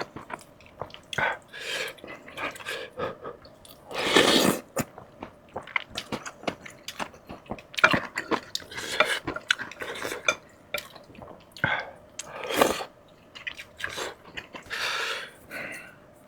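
Close-miked eating: wet chewing and mouth clicks with light taps of utensils on dishes, and several louder bites or slurps about four, eight, twelve and fifteen seconds in.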